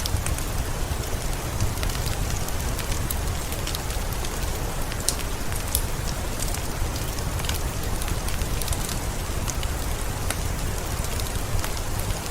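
Heavy rain falling steadily, with a low rumble underneath and many sharp drip and splash impacts from individual drops.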